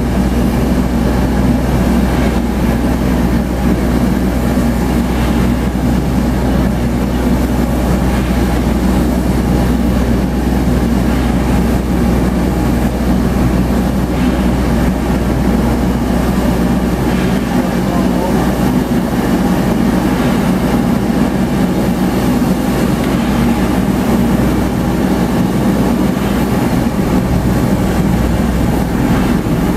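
Bell Boeing V-22 Osprey tiltrotor running, a loud steady low drone of engines and proprotors; the deepest rumble eases a little past the middle.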